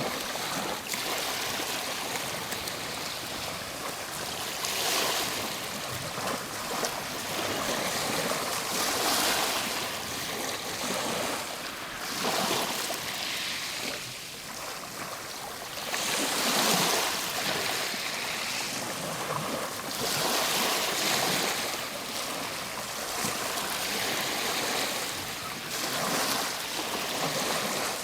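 Ocean waves breaking and washing on a shore, a steady surf rush that swells and falls back every few seconds.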